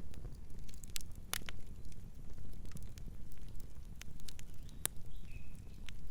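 Campfire burning: sharp crackles and pops, a few louder snaps, over a steady low rumble of the flames. A faint, brief high tone sounds near the end.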